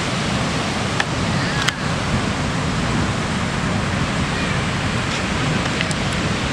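Steady rushing noise of ocean surf, with a couple of faint clicks about a second in.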